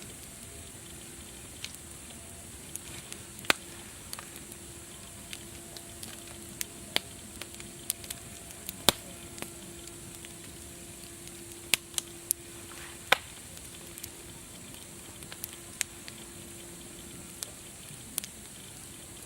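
Wood fire crackling: irregular sharp pops and snaps, roughly one or two a second, over a steady hiss. A faint steady low hum runs underneath for most of it.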